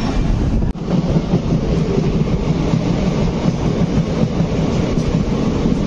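Indian Railways ICF passenger coach running on the track, heard at the open doorway: a steady rumble of wheels on rails, with a sudden brief dip less than a second in.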